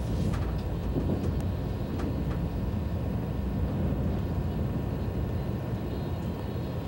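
ICE high-speed train running: a steady low rumble with a few faint clicks in the first couple of seconds.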